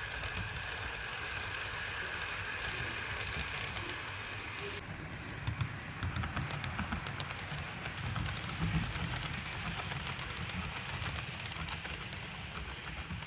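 Model railway train running on the layout: a steady motor whine, then, from about five seconds in, a rapid run of small clicks from the wheels over the track, over a low rumble.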